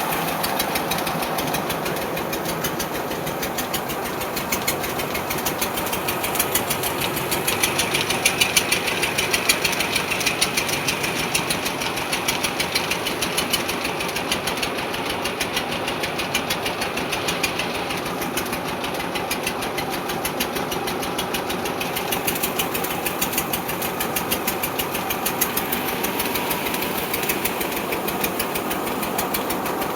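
Tractor's diesel engine running steadily with a rapid, even knock.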